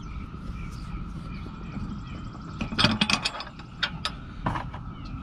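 Metal clanks and rattles of boat-trailer hitch hardware being handled, loudest in a quick cluster about halfway through, with a few single knocks after.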